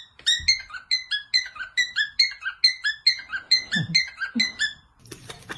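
A quick run of short, high chirpy notes, about three a second, each dipping a little in pitch, stepping through a simple tune.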